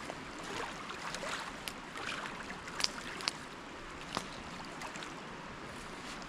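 Small waves washing and trickling over a rocky shoreline as a steady hiss, with a few sharp clicks scattered through it.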